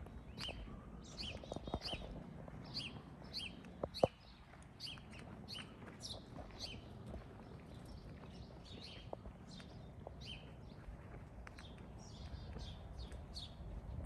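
Small birds chirping continuously, many short high chirps a few per second, over footsteps on a paved alley. A single sharp click about four seconds in.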